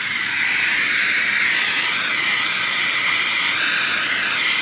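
Hand torch flame burning with a steady, loud hiss, heating a copper fitting to melt the solder so a sweated valve can be taken off.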